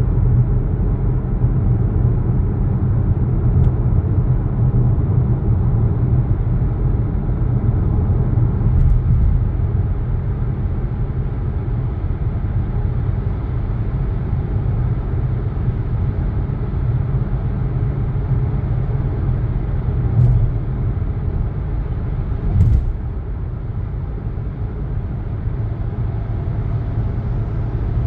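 Steady low rumble of a moving vehicle, with a couple of brief knocks about two-thirds of the way through.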